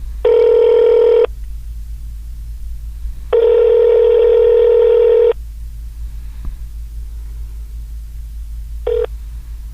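Electronic telephone ring: a steady buzzing tone rings twice, about one and then two seconds long, with a brief ring cut short near the end, just before the voicemail system answers.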